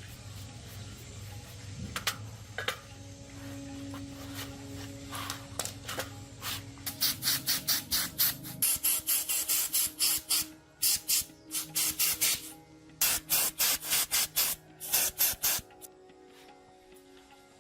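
Rapid back-and-forth rasping strokes of hand abrading work, such as filing, sanding or brushing a part of an old chainsaw during restoration, about three strokes a second. They start about seven seconds in, pause briefly midway, and stop a couple of seconds before the end, over quiet background music.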